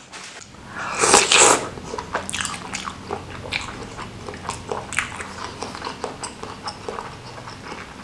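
Close-miked chewing and biting of a beef meatball in spicy soup, with wet mouth clicks and smacks throughout, after a loud breathy rush about a second in.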